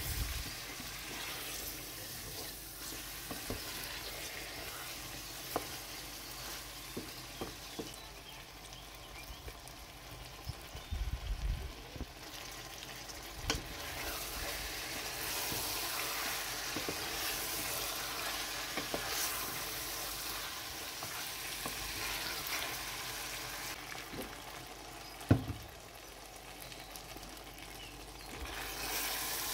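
Chicken pieces sizzling in oil and masala in a stainless steel pot while being stirred with a wooden spatula, with scattered knocks of the spatula against the pot and one sharper knock near the end.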